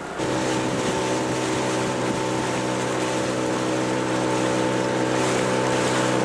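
Dinghy outboard motor running at a steady speed under way, with water rushing past the hull and wind on the microphone; it starts abruptly just after the start.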